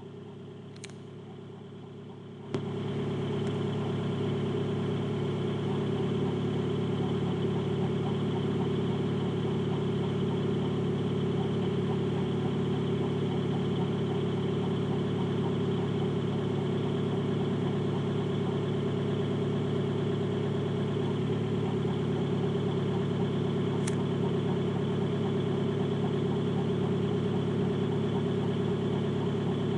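VW Passat TDI diesel engine bay running with a steady drone, the mystery noise the owner cannot place. It gets suddenly louder about two and a half seconds in and then holds steady, with a couple of faint clicks.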